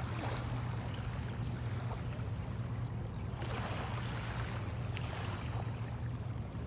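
Small waves washing on the bay shore, one surging in about midway, over a steady low drone.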